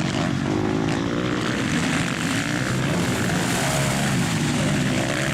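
Motocross motorcycle engines running hard, a steady drone that rises and falls slightly in pitch.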